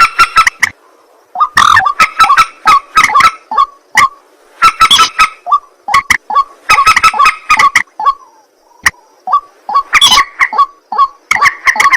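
White-breasted waterhen and common moorhen calling: loud, harsh, repeated croaking calls in about six bursts a second or so long, separated by short gaps.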